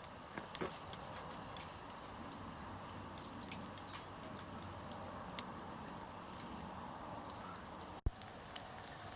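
Small backyard wood fire crackling: scattered sharp pops over a steady hiss, with a brief break and a click about eight seconds in.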